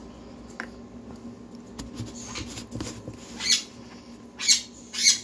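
Hatchling sun conure begging to be fed: three short raspy calls in the second half, with a few light clicks between them.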